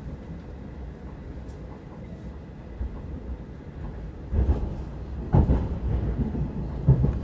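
Passenger train running on the rails: a steady low rumble, with several heavy knocks starting about four seconds in.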